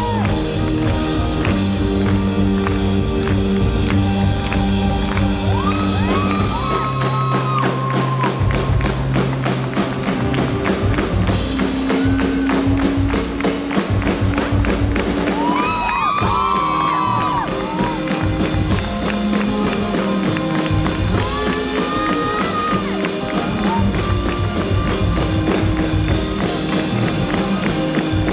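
Live rock band playing a song, with a steady drum beat under sustained instrumental notes.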